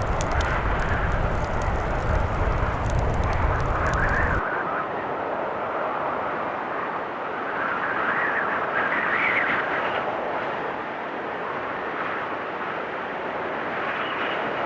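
Blizzard wind blowing in gusts, with a wood fire crackling. About four seconds in, the crackling and the deep rumble cut off abruptly, leaving the wind alone, swelling and easing every few seconds.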